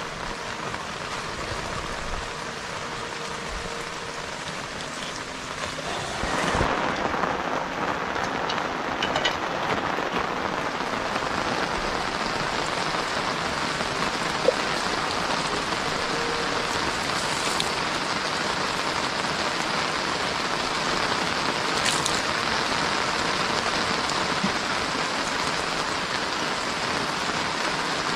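Steady rain falling, growing louder and heavier about six seconds in, with one sharp click partway through.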